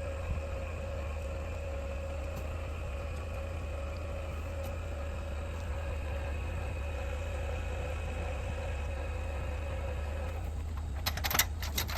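Vehicle engine idling steadily with a low rumble. A quick cluster of clicks and rattles comes near the end.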